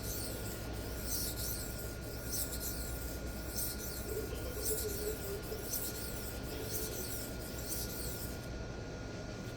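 Knife blade being stroked across a Sharpal diamond sharpening plate: a rhythmic gritty scraping of steel on diamond, a bit over one stroke a second, which stops near the end.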